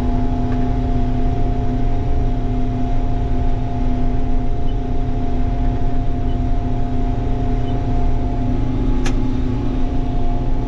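Combine harvester running steadily while harvesting corn: a constant machine drone with a steady hum. A single sharp click comes about nine seconds in.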